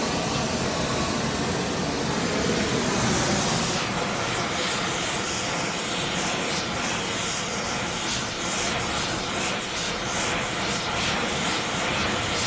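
Gas torch flame running steadily while heating snowblower skid shoes for bending. There is a brief louder hiss about three seconds in, then irregular light ticks over the flame noise.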